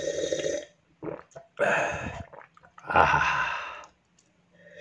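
A person drinking hot coffee: long slurping sips, with breathy exhales between them.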